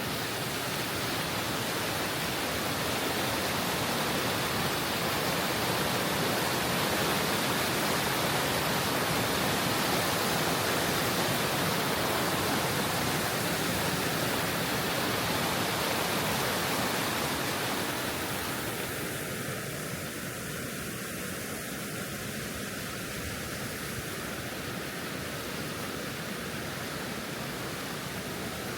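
Steady rush of the River Tees pouring over the falls and rapids at Low Force, an even, full noise that becomes a little quieter and thinner about eighteen seconds in.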